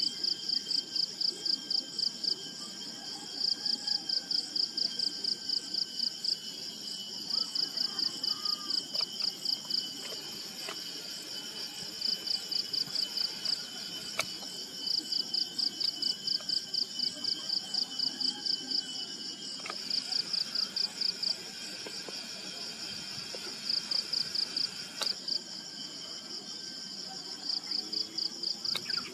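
Insects chirping in rapid, high-pitched pulse trains that each last a few seconds, with short breaks between them, over a steady, thinner insect drone.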